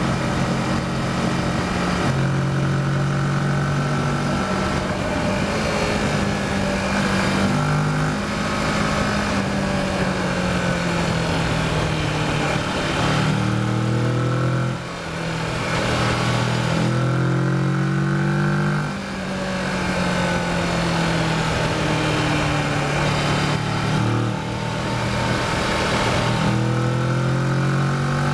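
Kawasaki Versys motorcycle engine under way, its pitch rising as it accelerates and stepping down at gear changes, with two short throttle-offs about halfway through, over wind noise.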